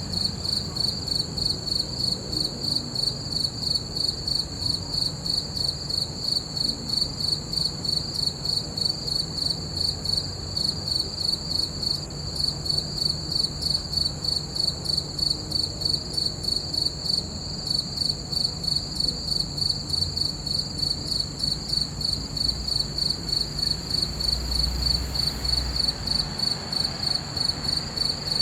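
Crickets chirping in a steady, even rhythm of about three chirps a second, with a faint low hum underneath.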